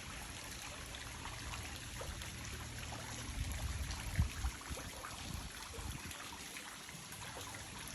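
Running water, a steady trickling wash, with one short knock about four seconds in.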